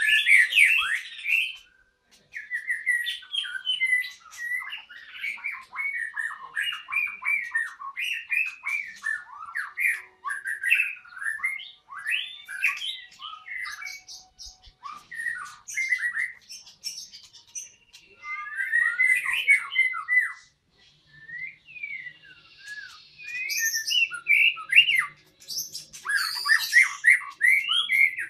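White-rumped shama (murai batu) singing a long, rapid run of varied whistled and harsh phrases, broken by a few short pauses.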